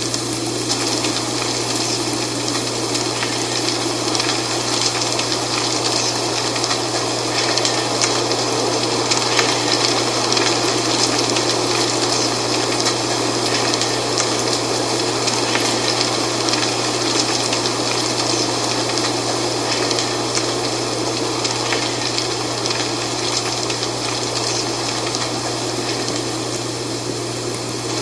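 Dry fall leaves rustling in steady wind, a continuous crisp crackle over a rushing hiss, with a steady low drone underneath.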